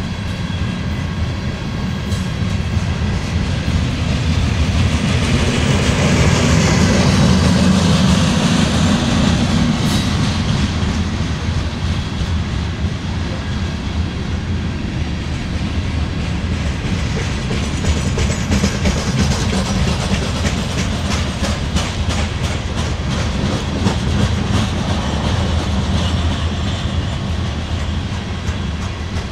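Freight train of hopper and grain cars rolling past, a continuous rumble of steel wheels on rail with a steady clickety-clack as the wheels cross the rail joints; the rumble is loudest a few seconds in.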